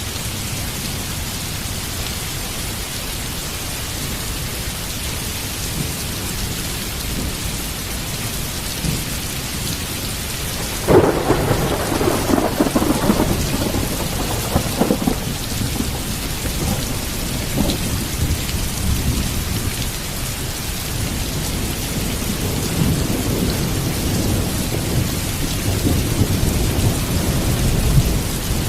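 Heavy rain falling steadily, with a thunderclap cracking suddenly about eleven seconds in and rumbling for several seconds, then further low thunder rumbling toward the end.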